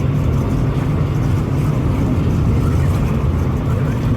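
Dirt-track race car engines running, a loud steady low rumble with no rise or fall in pitch.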